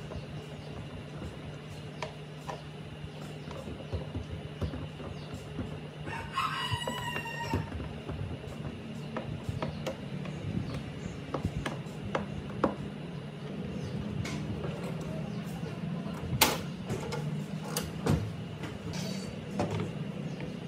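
A rooster crows once, about six seconds in, over a steady low hum. Scattered sharp knocks and clicks follow, the loudest about two-thirds of the way through.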